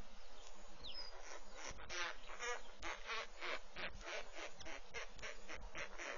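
Birds calling: a short falling whistle about a second in, then a run of rapidly repeated calls, about two or three a second, from about two seconds in.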